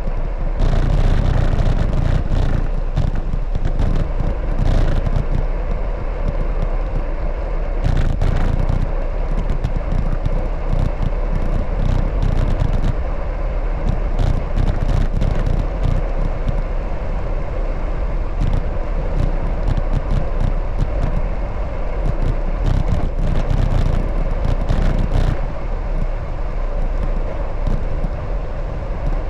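Steady rush of wind and road noise during a bicycle ride, with a heavy, uneven low rumble and scattered short clicks and rattles.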